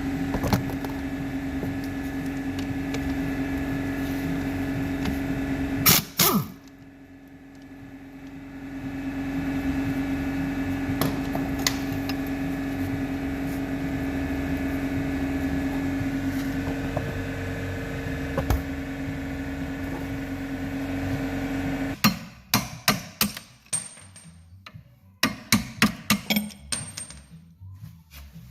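A steady mechanical hum with one pitched tone. It drops away after a loud click about six seconds in, then builds back up. The hum stops about 22 seconds in, followed by a run of sharp knocks and clicks of hand-tool work on metal parts.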